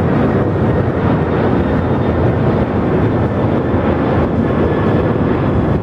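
Jet airliner engines running, a loud, steady rushing noise with a faint high whine.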